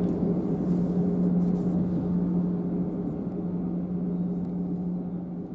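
A train running and slowly fading away into the distance: a steady low hum over a rumble, dying down gradually.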